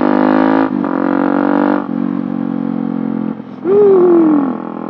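Small 50cc dirt bike engine with an aftermarket exhaust running, its note shifting in steps, then a quick rev near the end that jumps up in pitch and slides back down over about a second.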